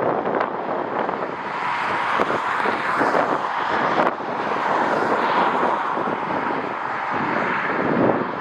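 Jet airliner engines rushing steadily, with strong wind buffeting the microphone in irregular gusts.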